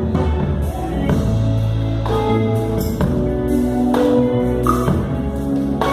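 Live band playing an instrumental passage, with a steady bass line and drums.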